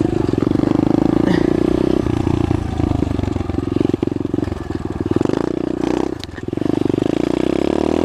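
SSR pit bike's single-cylinder four-stroke engine running while riding, the throttle easing off briefly about three seconds in and again around six seconds in before picking back up. A sharp click sounds around six seconds in.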